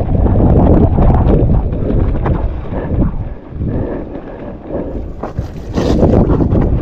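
Strong wind buffeting the camera microphone as a mountain bike descends a wet, muddy trail, with scattered rattles and knocks from the bike over rough ground. The wind eases for a couple of seconds in the middle, then picks up again.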